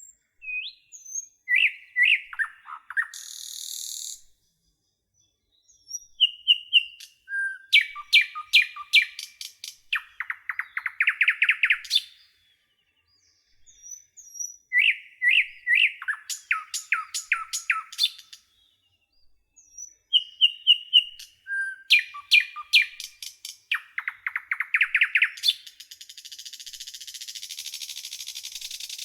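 Nightingale singing: four song phrases separated by brief silences, made of fast runs of repeated notes and trills, some ending in a harsh buzzing rattle.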